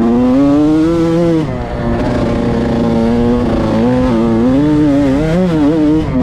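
Yamaha YZ125 two-stroke single-cylinder dirt bike engine revving under load while riding, with the pitch moving constantly with the throttle. Revs climb and hold high for about the first second, drop back and hold lower for a couple of seconds, then blip up and down several times near the end.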